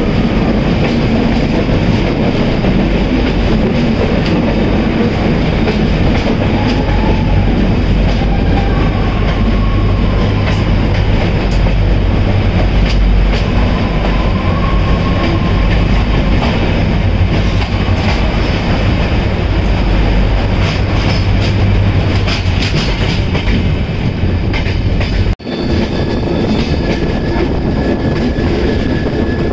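A passenger express train running on the rails, with a steady rumble and wheel clatter and faint, wavering wheel squeal. The sound drops out for an instant near the end, then carries on.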